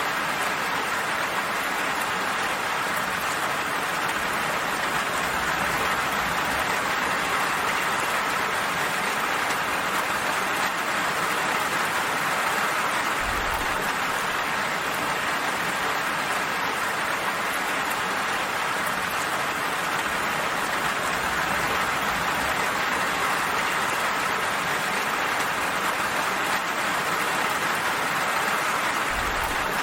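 Steady rain falling: an even, unbroken hiss of many drops at a constant level.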